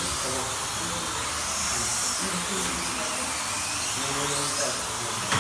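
Electric motors of slot cars racing on a track, a high whine rising and falling in pitch as the cars speed up on the straights and slow for the corners.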